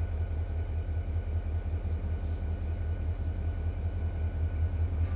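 Snowdon Mountain Railway train running: a low, steady rumble with a fast, even throb.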